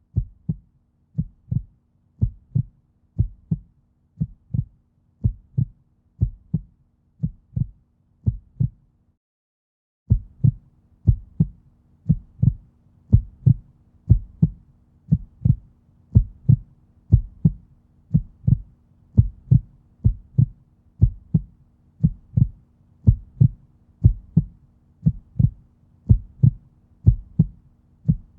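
A steady beat of sharp, low thumps, about one and a half a second, over a faint low steady hum. It stops for about a second near nine seconds in, then starts again a little faster.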